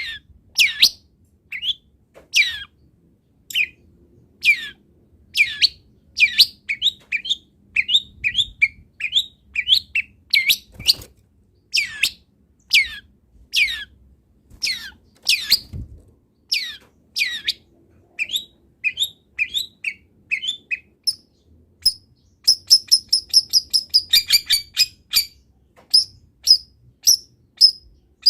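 Long-tailed shrike (cendet) singing loudly: a steady stream of short, sharp, downward-sliding chirps, with a quick rapid-fire run of higher notes about three quarters of the way through.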